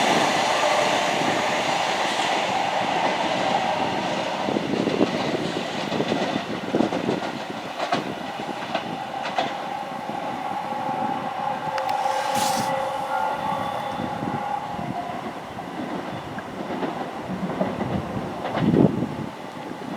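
A train passing, loud at first and fading away, its wheels clicking over rail joints; a steady whine sounds for several seconds midway.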